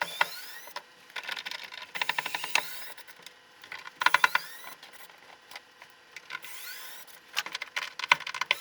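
Electric screwdriver backing out screws from the washing machine's panel. It comes in short runs, each with a rising motor whine, mixed with bursts of rattling clicks.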